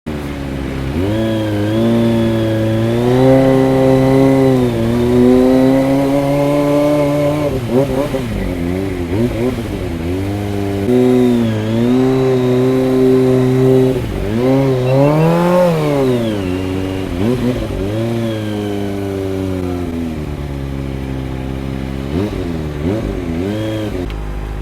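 Motorcycle engine accelerating and easing off through the gears while riding. Its pitch climbs and drops repeatedly, sweeping highest about fifteen seconds in.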